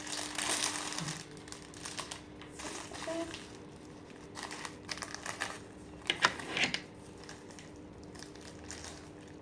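Plastic packaging crinkling and rustling as it is handled, with a burst of sharper crinkles about six seconds in.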